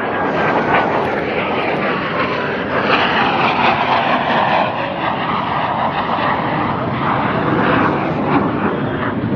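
Jet noise from the U.S. Navy Blue Angels' F/A-18 Hornets making a high-speed pass. The loud, even rush builds about three seconds in, stays strong, and eases near the end.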